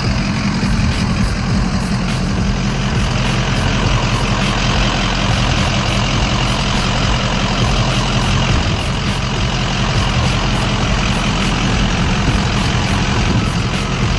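Steady engine and road noise of a vehicle being driven, a constant low rumble that does not change.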